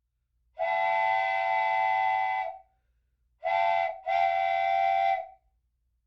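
Model train whistle blowing three times: a long blast, a short one, then another long one. Each blast is a steady chord-like tone with a faint hum beneath it.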